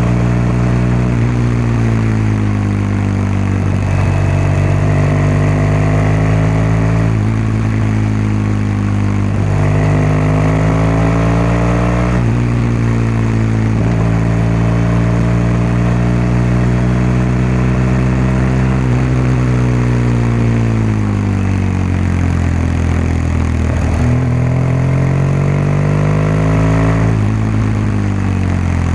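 BMW R1200GS boxer-twin engine and exhaust under way: the pitch climbs as it pulls and drops sharply at each upshift, several times. About two-thirds through it falls away slowly as the bike eases off, then climbs again.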